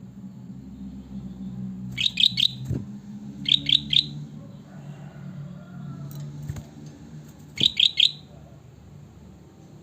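Kutilang batik (bulbul) calling: three short bursts, each of three quick, sharp chirps, the first two close together and the last near the end, over a steady low hum.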